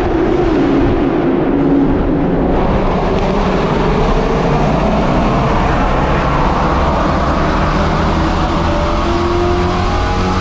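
Car engines running loudly at a car meet, with an engine's pitch climbing near the end as it revs.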